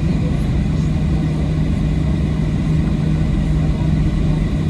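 Steady low rumble and hum of a Boeing 737-800 heard from inside the cabin, its engines running.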